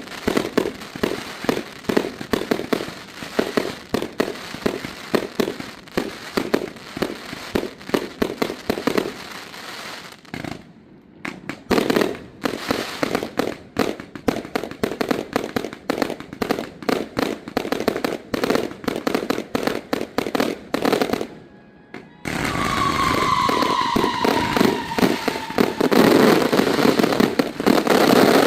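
Fireworks going off in a dense, rapid run of bangs and crackles, broken by a few short pauses. In the last several seconds the bursts merge into a continuous rush, and a whistle slowly falls in pitch over it.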